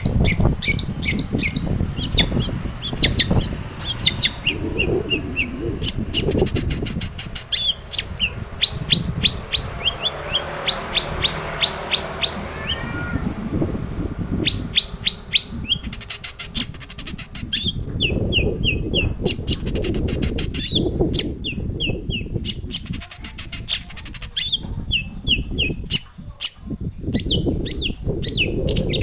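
Long-tailed shrike singing: runs of short, sharp repeated notes, at times about four a second, broken by brief pauses, over a steady low rumbling background noise.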